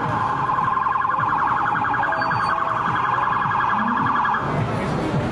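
Electronic siren or alarm tone with a fast warble, stopping about four and a half seconds in, over steady road and traffic noise.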